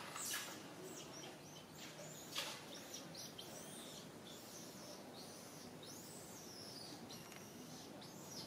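Outdoor ambience: a bird chirping in short, high, arching calls, over and over, against a steady hiss, with a brief rustle about two and a half seconds in.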